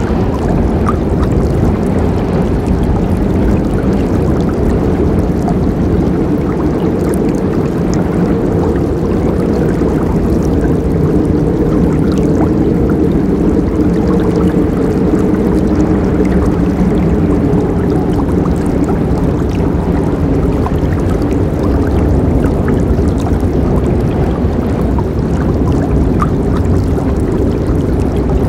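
River water flowing steadily over rocks, a constant low rushing with a little gurgling.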